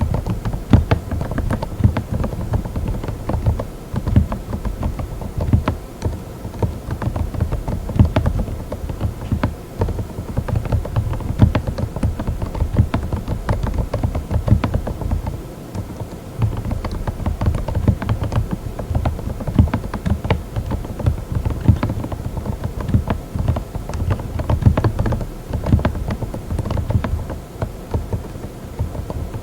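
Mechanical keyboard with Moksae silent linear switches (45 gf) being typed on fast and continuously: dense, soft, low-pitched keystrokes. The typing eases off briefly a few times, around 4, 16 and 27 seconds in.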